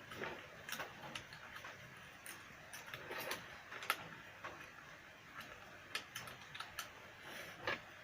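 Scattered light clicks and taps of small parts and tools being handled during repair work on a portable speaker, irregular, with a sharper click about four seconds in and another near the end.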